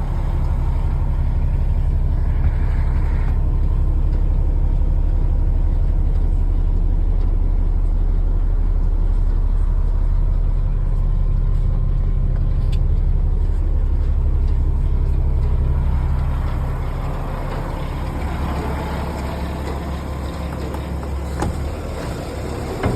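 PACCAR MX-13 inline-six diesel in a Kenworth T680 semi-truck idling, low and steady; about sixteen seconds in it becomes somewhat quieter.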